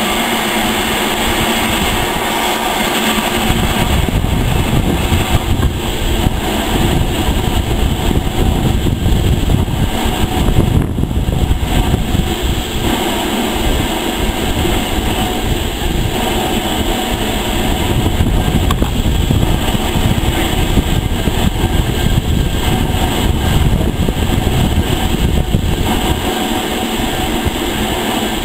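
Train of teak-bodied coaches rolling past on the rails behind a steam locomotive, a steady rumble of wheels on track that eases near the end as the last van moves off.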